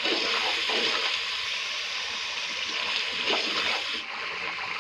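Onion-and-tomato masala frying in hot oil in an aluminium pot: a steady sizzle and bubbling, with a metal spoon stirring and scraping through it a couple of times. The sizzle softens slightly about four seconds in.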